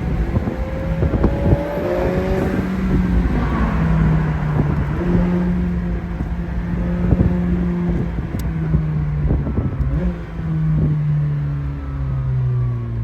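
McLaren 765LT's twin-turbo V8 running at moderate throttle while driving, its note stepping up and dropping back several times as it changes gear, over road and wind noise.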